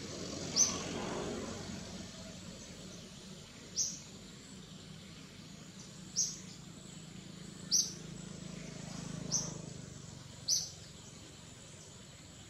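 A bird chirping: six short, sharp, high chirps, one every one to three seconds, over a steady low outdoor background noise.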